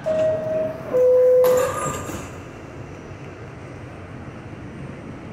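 R68 subway car's two-tone door chime, a higher note then a lower one, followed about a second and a half in by the doors closing with a short loud rush of noise. After that comes the car's steady low rumble.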